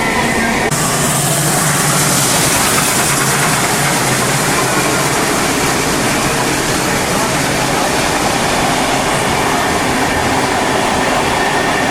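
Steady, loud running noise of a steam-hauled train, heard from the first carriage behind NSW steam locomotive 3016. The high hiss grows fuller just under a second in.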